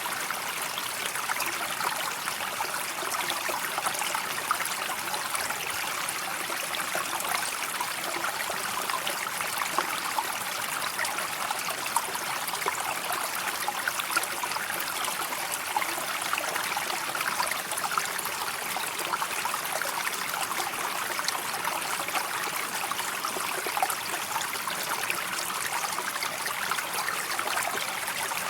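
Running water of a calm river, a steady wash of flowing water with a dense scatter of tiny splashes, even throughout.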